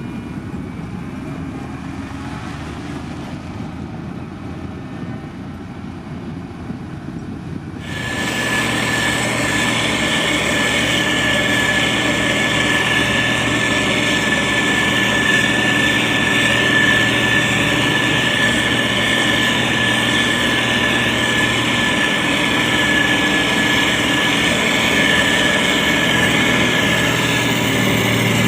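Diesel engine of a SANY STG190C-8S motor grader running steadily. About eight seconds in the sound jumps suddenly louder and brighter, with a steady high whine over the low engine note.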